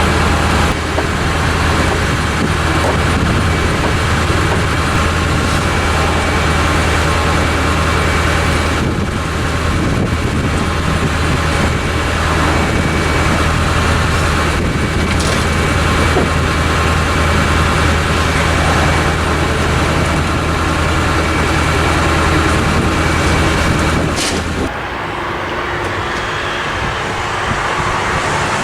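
Tractor engine running steadily at idle, its steady low drone dropping away sharply about 24 seconds in.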